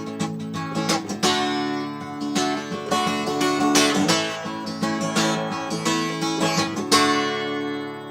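Acoustic guitar strummed, playing chords between sung lines, with the last chord ringing out near the end.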